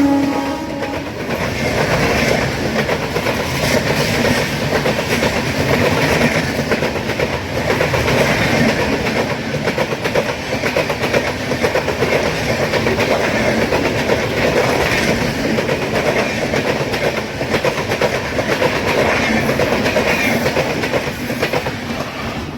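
Indian Railways express train passing at speed: a continuous rush of coaches with the wheels clattering over rail joints. The last of its multi-tone horn trails off, dropping in pitch, just as the passing noise begins, and the noise eases slightly near the end.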